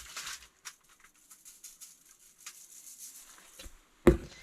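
Light rustling and crinkling from hands handling food and wrapping while seasoning food, with one sharp knock near the end.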